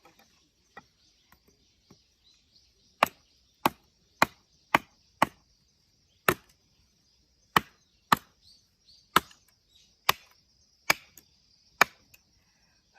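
An axe chopping firewood: about a dozen sharp wooden chops, mostly half a second to a second apart with a few short pauses, starting about three seconds in after some faint taps. The log is not splitting.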